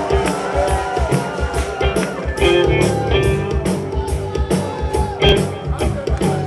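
Live rock band playing: drums keep a steady beat under electric guitar, with bending guitar notes in the first couple of seconds.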